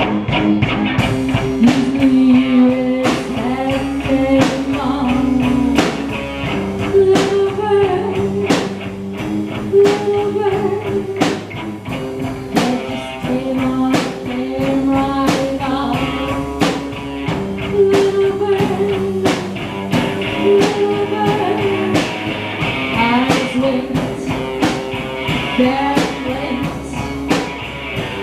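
Live rock band playing: electric guitars carrying a melody over a steady drum beat.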